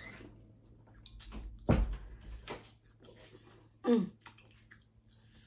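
Wet, sticky smacking and squelching of eating and handling sauce-covered seafood boil, with a louder knock about two seconds in and a short voiced sound near four seconds in.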